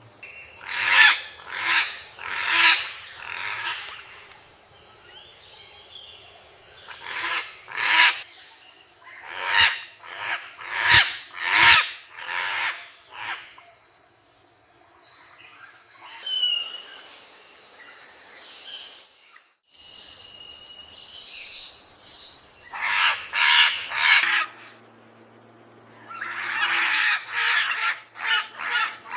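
Birds giving loud, harsh calls in repeated runs of several calls each, over a steady high-pitched whine.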